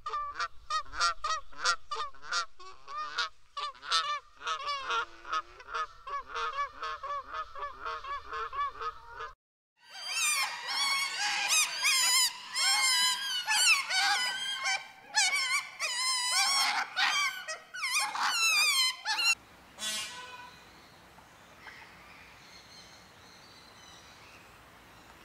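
A flock of birds honking in rapid, overlapping calls. An abrupt cut about nine seconds in brings a louder, denser chorus of honks. That also cuts off at about nineteen seconds, leaving a quieter background with an occasional single call.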